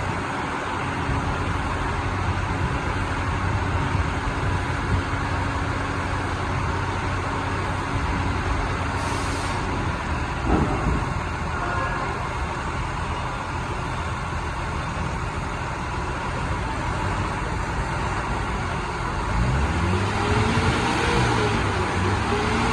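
An engine running steadily, with its pitch rising and falling repeatedly near the end as it is revved.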